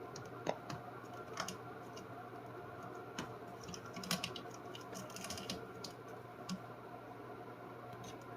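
Scattered, irregular light taps and clicks from kittens playing: paws and claws on the floor and the things around them. Under them runs a steady faint hum.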